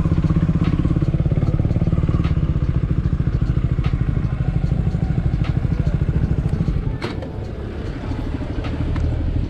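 KTM Duke 250's single-cylinder engine idling with an even, rapid pulse, then switched off about seven seconds in, leaving a quieter background.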